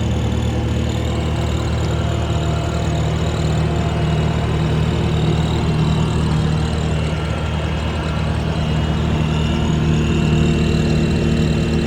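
2019 Bobcat T590 skid steer track loader's 66 hp diesel engine running steadily, with slight shifts in engine speed.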